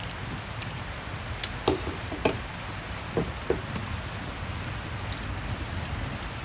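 Steady rain with a crackling wood fire; a few sharp pops stand out between about one and a half and three and a half seconds in.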